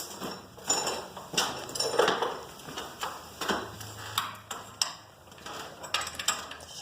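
Irregular metallic clinks and knocks of hand tools and metal hardware being handled, the loudest about two seconds in.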